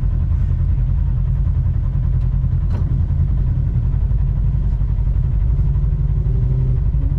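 Polaris Xpedition four-seat side-by-side running steadily along a trail, its engine and drivetrain making a constant low rumble, with one short click about three seconds in.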